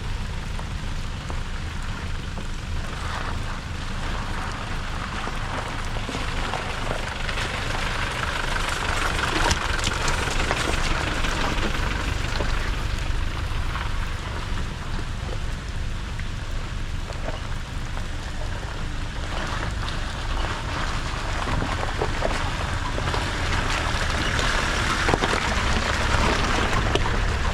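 An off-road truck's engine running steadily as it drives a rough track in the rain, with rain and tyre noise hissing over a low rumble.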